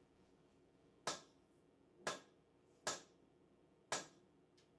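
Hand hammer striking the end of a heated 4140 steel round bar to upset it, four sharp blows about a second apart and a lighter tap near the end.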